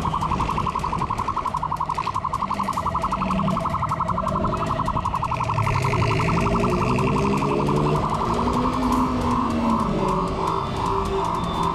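Police siren sounding as a rapid pulsing tone, switching to a slower pulse about nine seconds in, over a vehicle engine rising and falling in pitch.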